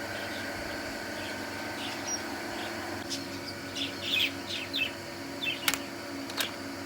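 Small birds chirping in short, quick calls that begin about three seconds in, over a steady background hum, with two sharp clicks near the end.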